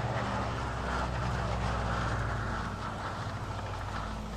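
Aircraft engine noise: a steady low drone with a hiss that fades about three seconds in.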